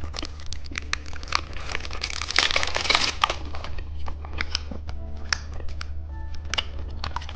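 Plastic candy packaging being handled and unwrapped: crinkling and tearing with many sharp clicks, and a denser rustle about two to three seconds in.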